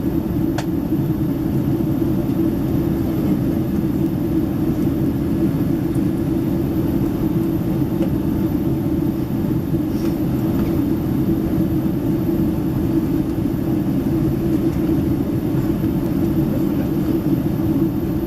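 Steady low roar of a Boeing 767-300ER cabin in flight: engine and airflow noise heard from an economy seat.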